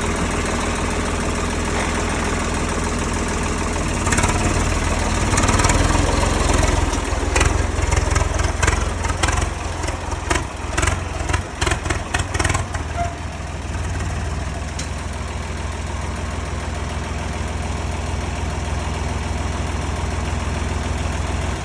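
Tractor engine running steadily at idle. From about four to thirteen seconds in, a run of sharp knocks and clatters sounds over it and the sound gets louder, then it settles back to a steady idle.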